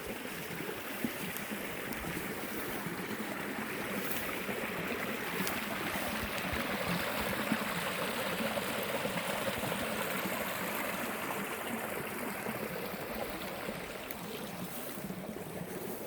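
A creek's running water, a steady rushing babble that grows louder toward the middle and eases a little near the end.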